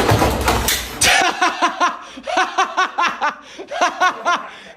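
People laughing: a quick run of short, high-pitched 'ha' bursts, several a second, after about a second of loud noisy clatter at the start.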